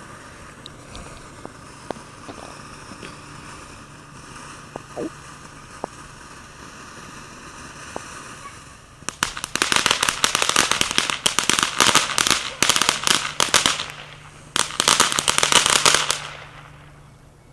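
A few scattered pops, then a large consumer firework going off in rapid crackling bursts of many small bangs for about five seconds. After a short pause comes a second burst of crackling, which fades out.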